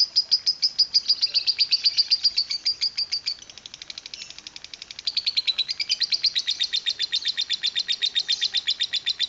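Lovebird singing its long 'ngekek' chattering song: an unbroken run of rapid, high chirping notes, about six a second, turning softer and quicker for a second or so just past the middle before going loud again.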